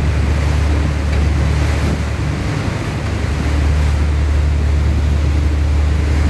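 Glass-bottom catamaran under way: a steady low engine drone over the rush of water in its wake, with wind buffeting the microphone.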